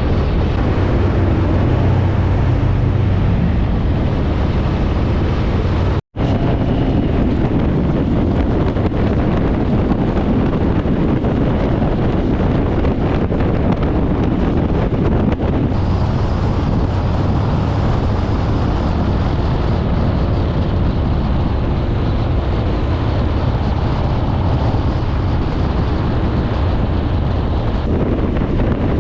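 Harley-Davidson motorcycle engine running while riding at speed, mixed with wind buffeting the microphone. The sound cuts out for an instant about six seconds in.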